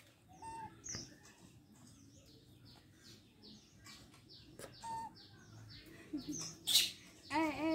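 Birds chirping repeatedly in short falling notes, with a couple of brief squeaks. Near the end comes a short harsh burst, then a louder, wavering high-pitched animal cry.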